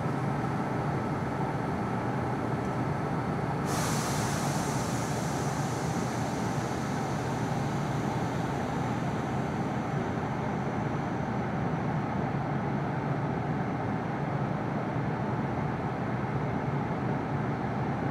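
Kintetsu electric commuter train standing stopped, its onboard equipment humming steadily. About four seconds in, a sudden hiss of released air starts and slowly fades.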